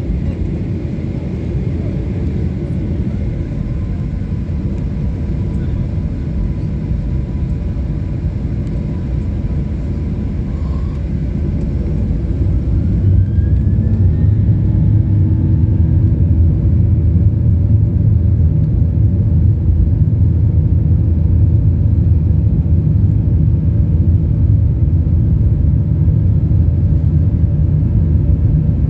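Boeing 737-800's CFM56-7B jet engines heard from inside the cabin, running with a steady rumble and several held tones. About halfway through a rising whine comes in and the engines get louder, then hold steady at the higher thrust.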